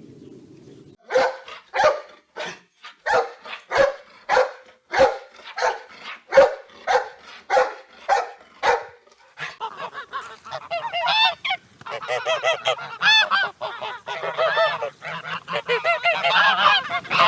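Farm waterfowl calling: a run of short, evenly repeated calls about two a second, then about halfway through a denser chorus of overlapping, higher calls from several birds.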